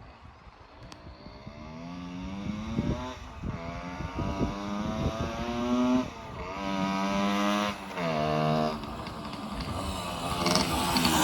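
1968 Suzuki Sportsman M15-2's 50cc two-stroke single-cylinder engine pulling the bike along, its pitch climbing as it accelerates and dropping back at each gear change several times, growing louder near the end.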